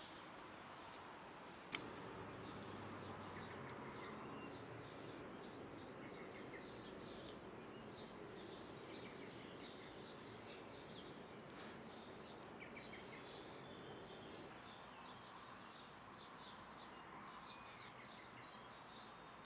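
Faint outdoor ambience: small birds chirping in quick repeated calls over a steady low background noise, with a sharp click about two seconds in.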